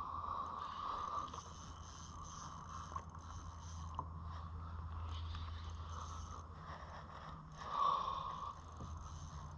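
Fishing reel being worked while a hooked fish is played from a kayak: a steady mechanical winding, swelling louder about eight seconds in.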